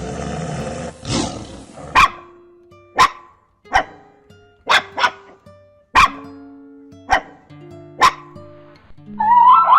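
A rough, noisy animal sound for the first second and a half, then eight short, sharp barking calls about a second apart, over background music with steady held notes.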